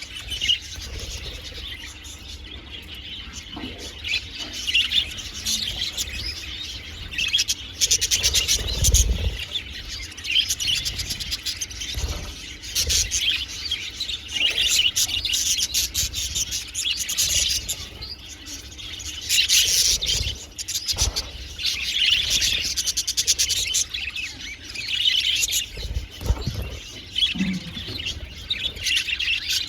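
A flock of budgerigars chattering and chirping continuously, many warbling calls overlapping, with a few soft low thumps.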